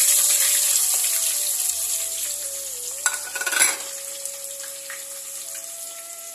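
Sliced onion, curry leaves and dried fenugreek sizzling in hot oil in a steel pot, loud at first and slowly dying down. A brief clatter of stirring about three and a half seconds in.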